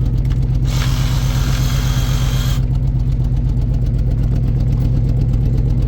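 Tow truck engine running steadily with a low, pulsing drone, and a hiss lasting about two seconds shortly after the start.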